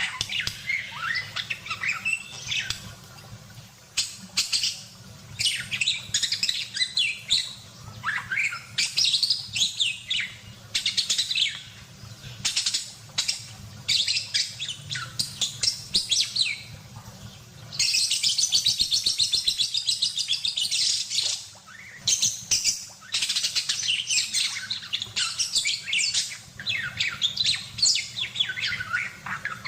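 Budgerigar chattering and warbling: a fast, unbroken run of high chirps and squeaky gliding notes, with one longer stretch of continuous warbling about two-thirds of the way through.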